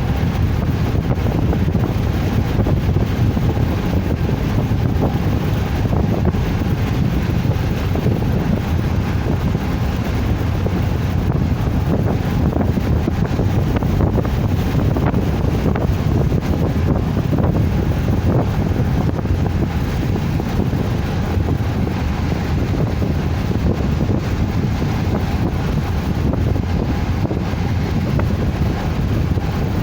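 Steady low rumble of a moving car with wind buffeting the microphone, an even noise with no distinct events.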